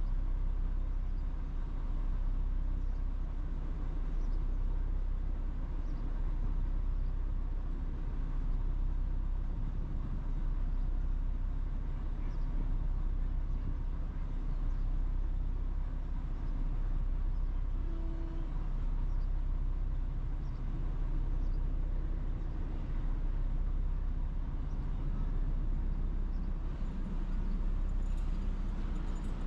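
Steady low rumble at an even level, with a short faint tone about eighteen seconds in.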